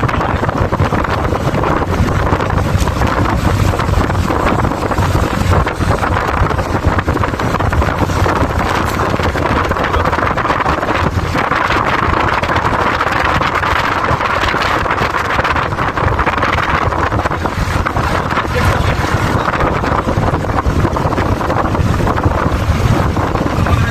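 Wind buffeting the microphone over the steady running noise of a moving vehicle, a constant low rumble with rushing air.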